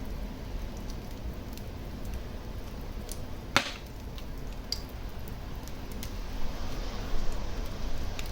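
Fire crackling in a fireplace: a steady low rumble with scattered small crackles, and one sharp, loud pop about three and a half seconds in.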